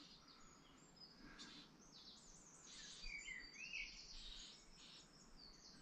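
Near silence with faint birdsong: small birds giving quick high chirps, with a short warbling phrase about three seconds in.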